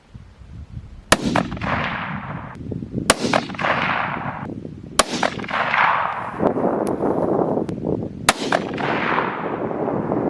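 Four gunshots, the first three about two seconds apart and the last after a longer pause, each followed by a long rolling echo.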